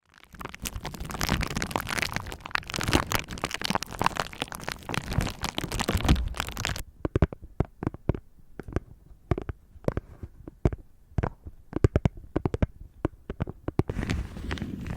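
Close-miked ASMR trigger sounds with no talking. Dense crinkling and crackling stops abruptly about seven seconds in. It gives way to sparse, sharp clicks and taps, and the dense crackling returns near the end.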